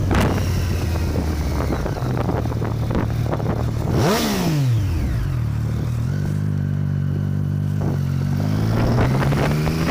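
Motorcycle engine running steadily, with a brief rising-then-falling whine about four seconds in. Over the last few seconds the engine pitch climbs steadily as the bike accelerates.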